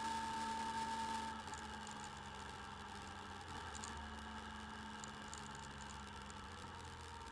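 Motorcycle engine running steadily over road noise, picked up by the bike camera's microphone; its strong tone drops away and the sound gets quieter about a second in.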